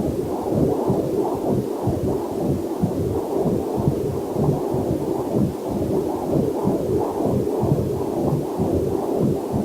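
Whooshing heartbeat picked up by a fetal Doppler monitor, a quick, even pulse, over a faint waterfall hiss.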